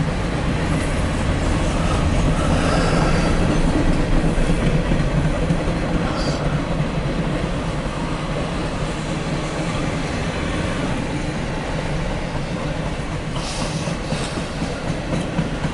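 Norfolk Southern freight train of empty trash cars rolling past, a steady rumble of steel wheels on rail that swells a little a few seconds in, with a faint wheel squeal.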